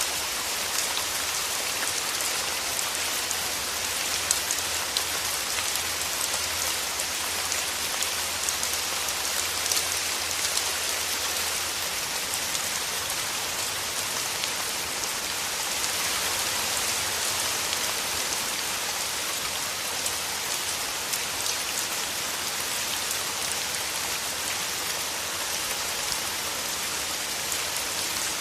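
Steady rain falling through forest trees, an even hiss of drops with many small pattering hits on leaves.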